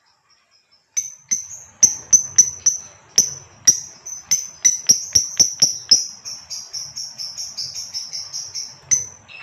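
Female lovebird calling: a string of sharp, high chirps, about three or four a second, that speed up into a fast continuous chatter from about six seconds in and stop shortly before the end.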